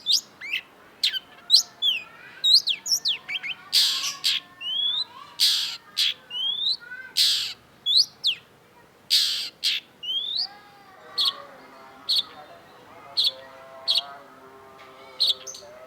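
Long-tailed shrike singing a fast, varied song: quick downward-sweeping whistled notes mixed with loud harsh, rasping screeches in the middle, then a run of short, sharp high notes repeated about every half second to second near the end.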